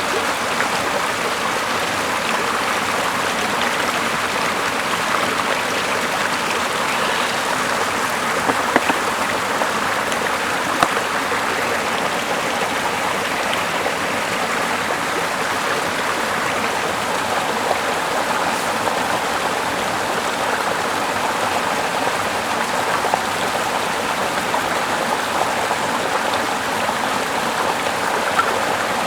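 Water of a small river running steadily, an even rush of flowing water, with a few sharp clicks now and then.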